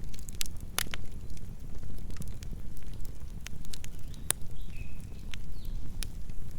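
Campfire burning: a steady low rumble with irregular sharp crackles and pops of burning wood, with louder snaps about a second in and just after four seconds.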